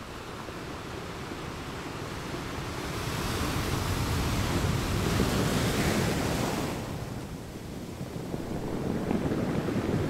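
Ocean surf: a wave builds, breaks and washes back, loudest in the middle, then a second wave swells near the end.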